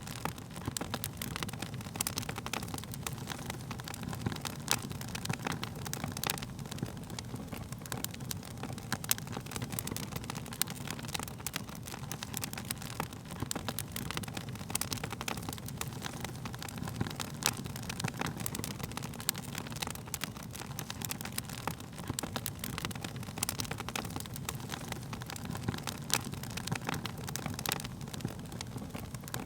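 Wood fire crackling: frequent irregular sharp pops and snaps over a steady low rumble of burning flames.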